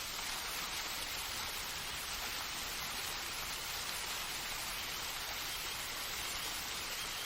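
Steady rushing of falling water, an even hiss that holds level throughout, from a waterfall ambience.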